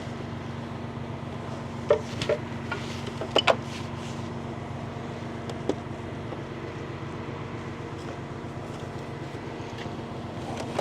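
A vehicle engine idling with a steady drone, broken by a few sharp clicks and knocks around two to four seconds in and once more near the middle.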